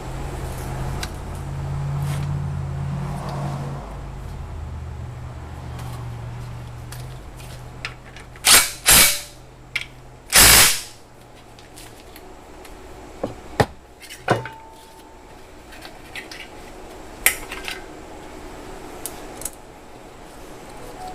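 Workshop tool sounds during an engine rebuild. A low steady hum stops about twelve seconds in. Three short, loud bursts of a power tool come around the middle, followed by scattered clicks and knocks of metal parts.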